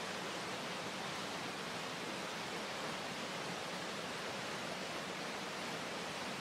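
Water pouring over a creek's rapids and waterfalls, a steady, even roar of falling water.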